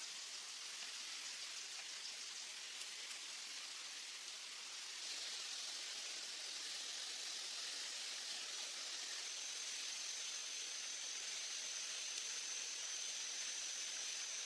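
Steady hiss of falling or running water that gets slightly louder about a third of the way through. A thin, high, steady whine joins about two-thirds in.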